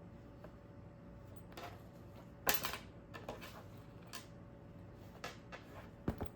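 Scattered light clicks and clatters of tableware, the loudest about two and a half seconds in and a quick pair near the end, over a steady low hum of room noise.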